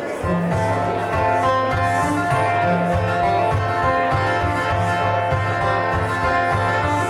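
Live band playing an instrumental song intro: plucked guitar over a bass line of repeated low notes, in a country-blues style.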